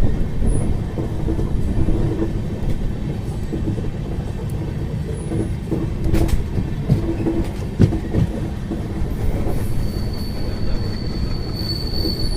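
Passenger train running, heard from on board: a steady low rumble of wheels on the track with a few sharp knocks, and a thin high whine setting in near the end.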